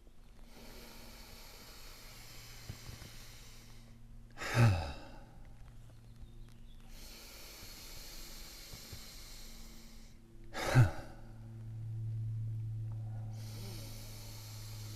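Sigh breathing: long breathy inhales through the nose, each released in a short voiced 'huh' sigh that falls in pitch, twice about six seconds apart. A low steady hum sits underneath and grows louder after the second sigh.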